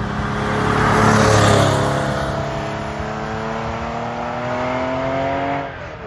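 Porsche engine under acceleration: loudest with a rush of noise about a second in, then its pitch climbs steadily for several seconds before dropping off just before the end.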